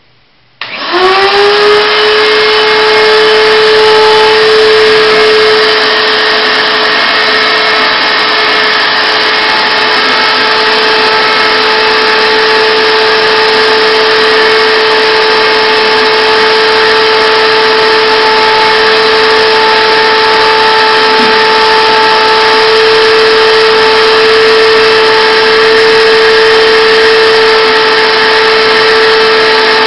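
Shop vac switched on about a second in; its motor spins up with a quickly rising whine, then runs loud and steady, drawing air through a homemade cyclone dust separator.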